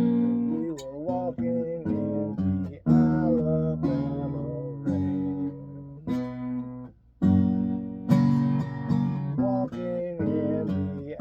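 Acoustic guitar playing an instrumental passage of strummed and picked chords. It breaks off briefly about seven seconds in, then picks up again.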